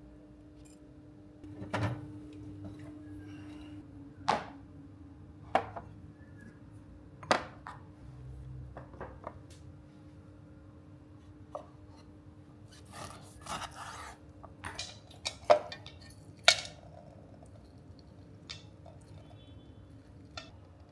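Kitchenware being handled: a series of separate clinks and knocks of dishes, glass and utensils, the loudest two about fifteen and sixteen seconds in, over a faint steady hum.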